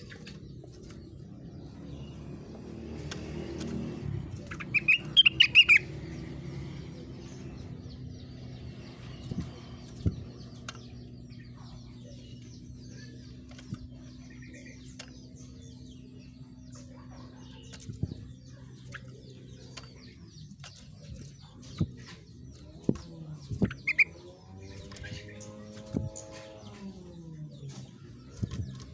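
Rengganis songbird giving a quick run of loud, high chirps about five seconds in and a single chirp later on, with scattered short clicks between.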